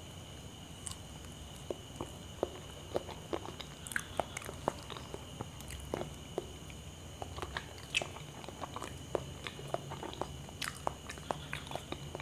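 Close-miked eating of small ripe bananas: soft, wet mouth clicks and smacks of chewing, scattered irregularly a few times a second, with the occasional faint tear of banana peel.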